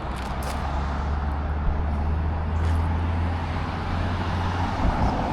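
Motor vehicle running with traffic noise around it: a steady low engine drone that cuts off near the end.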